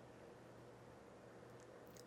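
Faint, steady low hum of a 36-inch NuTone Slimline spinner ceiling fan running on low speed, a hum the owners put down partly to its transformer-based speed control.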